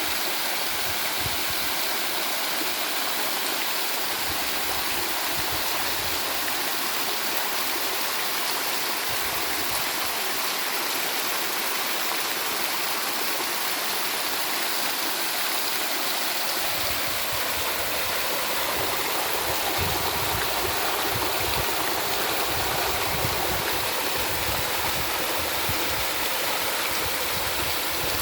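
Running water babbling steadily, an even rush with no pauses; a deeper rumble joins in a little past halfway.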